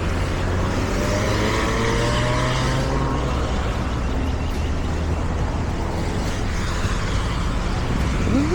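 City road traffic: motor vehicles running and passing, a steady low rumble with a faint rising engine note early on. A rising tone begins right at the end.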